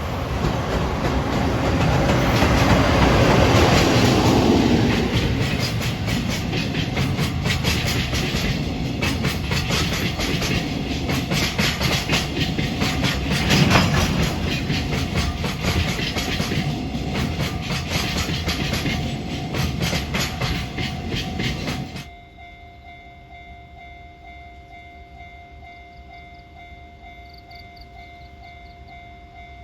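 Freight train passing close by, its wagon wheels clacking rapidly over the rail joints. The noise cuts off suddenly about three-quarters of the way through, leaving a much quieter background with faint steady tones.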